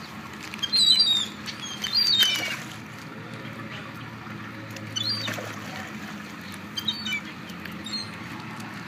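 Birds calling: short, high-pitched, falling chirps in small clusters, loudest about one and two seconds in, with more around five seconds and near the end, over a low steady background.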